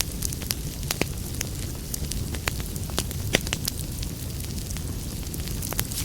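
Wood fire in a fireplace crackling: a steady low rumble of flame with sharp, irregular pops and snaps several times a second.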